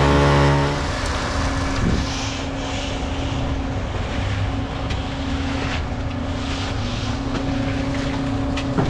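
An engine running, easing down from higher revs about a second in, then holding a steady speed, with a few light knocks over it.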